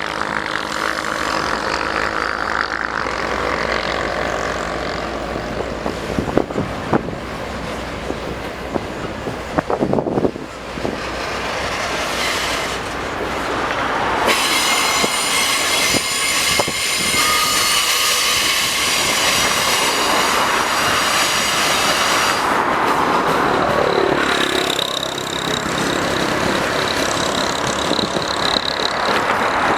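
Diesel freight train passing: the locomotive's engine running for the first dozen seconds or so, then wagons rolling by with wheel squeal and clicking over the rails, a high steady squeal rising after about 23 seconds.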